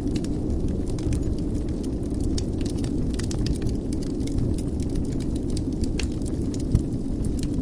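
Wood fire burning in a fireplace: a steady low rumble of flames with frequent small crackles and pops, one louder pop about two-thirds of the way through.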